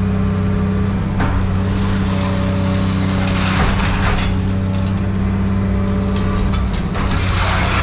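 Hydraulic scrap-processing machine running with a steady low drone, with two swells of metal crunching, about three seconds in and again near the end, as scrap is crushed.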